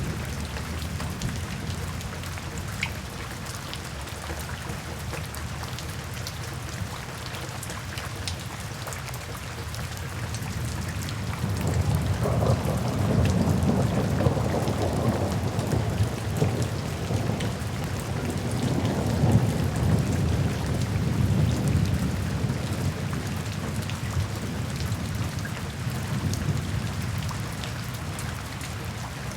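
Steady rain falling, with a long low rumble of thunder that swells about twelve seconds in and fades near the end.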